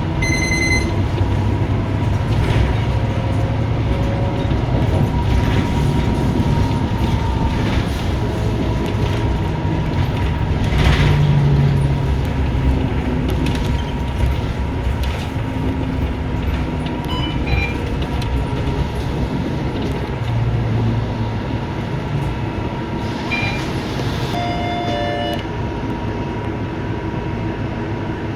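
Interior of a moving Scania K230UB single-deck bus: steady engine and road rumble. A short electronic beep sounds about half a second in, and a few more short beeps come about three-quarters of the way through.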